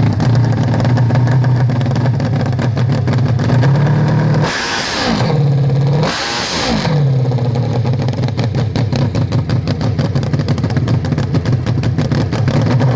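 Loud hill-climb motorcycle engine running steadily, blipped up to high revs twice about a second and a half apart, each rev falling back to the steady running note.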